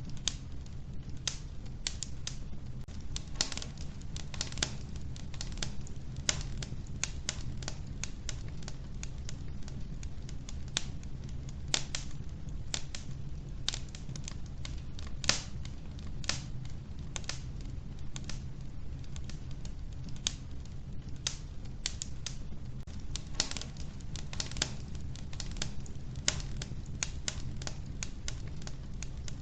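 Wood fire burning in a wood-burning stove: irregular sharp crackles and pops from the logs over a steady low rumble of the flames.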